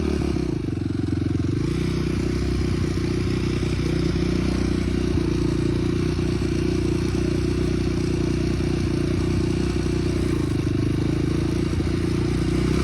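Small motorbike-type engine running at a steady speed, as on a dirt bike or kart being ridden.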